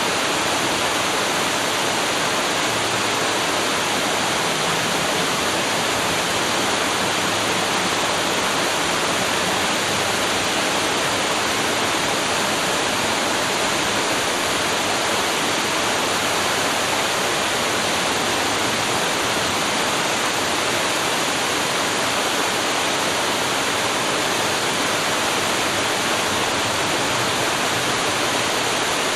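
Waterfall: water pouring steadily over a drop, a dense, even rush that does not change.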